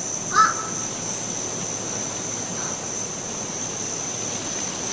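Woodland ambience: a steady high insect drone over a soft even hiss, with one short bird chirp about half a second in.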